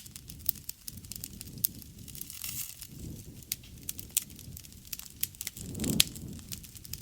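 Wood fire crackling: frequent sharp pops and snaps over the low sound of the flames, with one louder pop about six seconds in.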